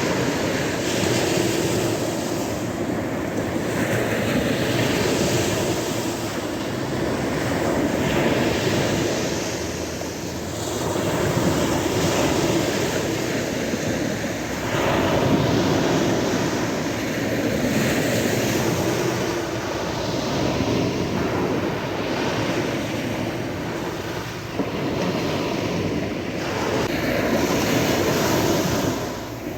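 Sea waves washing onto a shore, the surf rising and falling in swells every few seconds.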